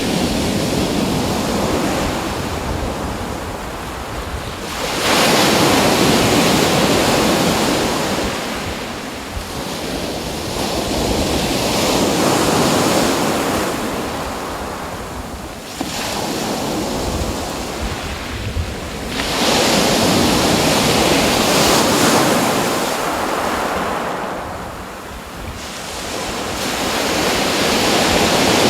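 Sea waves washing in and drawing back, a steady rush of water that swells to a loud surge every several seconds and then ebbs.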